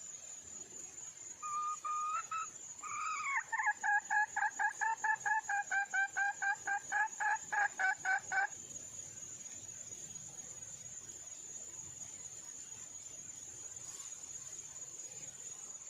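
Red junglefowl hen calling: one held note, then a quick run of about twenty short notes at about four a second, gently falling in pitch. It stops about halfway through. This is the hen's call for a mate.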